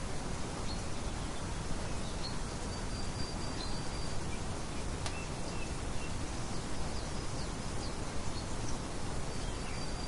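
Steady wind noise with birds chirping over it: scattered short high chirps and a held high whistle, twice.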